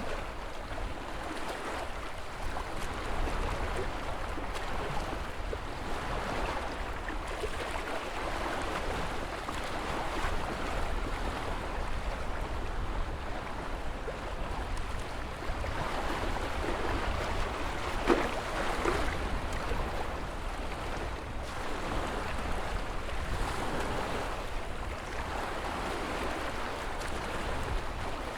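Ocean surf: waves washing in as a continuous rushing noise that swells and eases every few seconds, over a steady low rumble, with one brief sharper splash about two-thirds of the way through.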